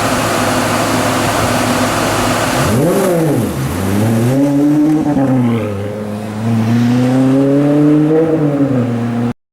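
Maserati Quattroporte GTS's 4.7-litre V8 through a Larini sports exhaust, first droning steadily under road noise, then revving up and down several times as the car is driven. The sound cuts off abruptly near the end.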